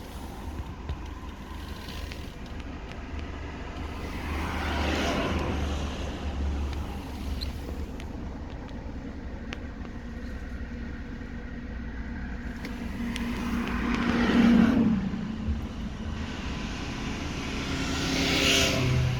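BMW 318i's N43 four-cylinder petrol engine running steadily, with the sound swelling and fading three times, loudest about two-thirds of the way through.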